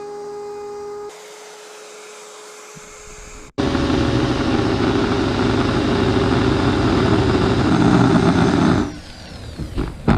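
Electric router whining at speed, then after a break a louder, rougher run of about five seconds as the bit cuts into hard bird's-eye maple. It stops suddenly near the end, followed by a few knocks.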